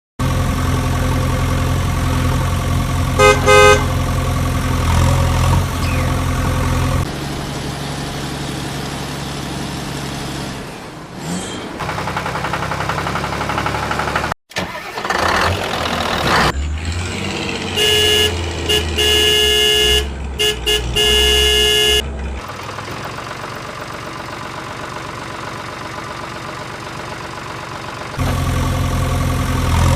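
Vehicle engines running in a string of abruptly changing segments. There is a short horn honk a few seconds in and a run of repeated horn honks about two-thirds of the way through.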